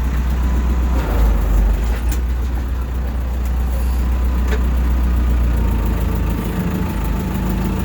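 Backhoe's diesel engine running steadily, its note rising a little past the middle, with a couple of sharp clicks about two and four and a half seconds in.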